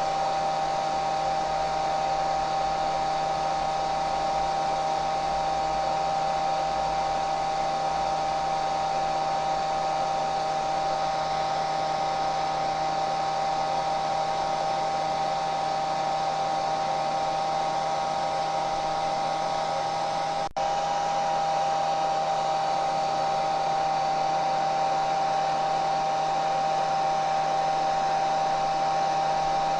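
Hair dryer running continuously: a steady rush of blown air with a constant motor whine. The sound dips for a split second about two-thirds of the way through, then carries on unchanged.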